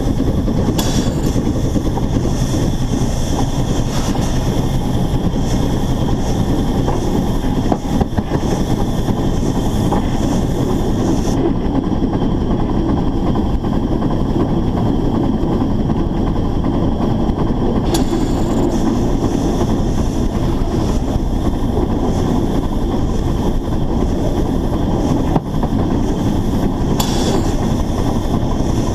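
Narrow-gauge steam locomotive of the Rügen resort railway running along the line, heard close up on the locomotive: a loud, steady rumble of running gear and rails, with a few faint clicks.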